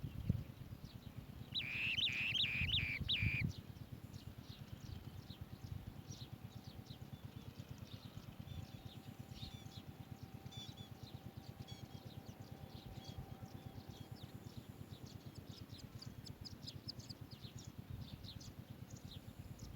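Asian green bee-eaters calling: a loud run of five or six quick repeated high notes about two seconds in, then faint short high chirps on and off for the rest of the time.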